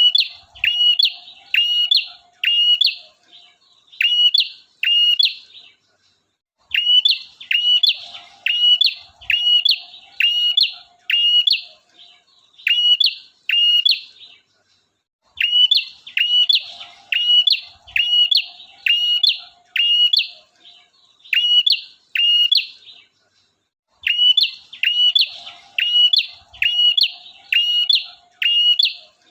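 Male prenjak (prinia) singing a loud, fast series of sharp notes, each falling in pitch, about two a second, in phrases of several seconds broken by short pauses.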